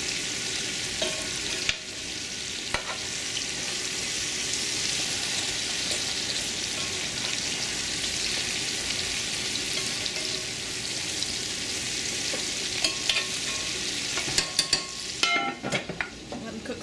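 Gar fish boulettes sizzling steadily as they fry in a large pan, with light spoon clicks as they are turned. Near the end comes a burst of metallic clatter as the metal lid is set back on the pan.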